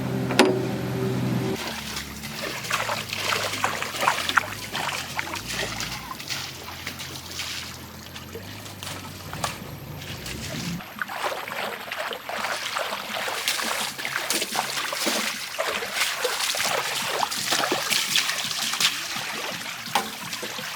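River water splashing and trickling in irregular bursts. A machine engine runs steadily for the first second or so, then drops to a low hum that stops about halfway through, leaving only the splashing.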